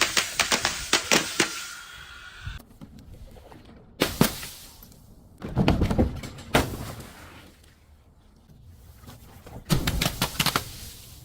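Something crunchy being crushed, cracking and snapping in four bursts of sharp, rapid cracks with quieter pauses between.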